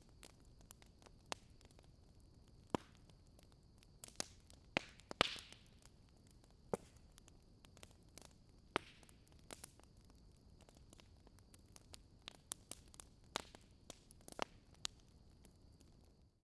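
Wood fire crackling faintly, with irregular sharp pops over a soft hiss. It cuts off suddenly near the end.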